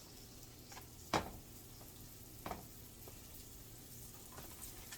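Flour-dredged chicken thighs frying in a shallow layer of oil in a sauté pan, a faint steady sizzle. A few short, sharp clicks cut through it, the loudest about a second in and another about two and a half seconds in.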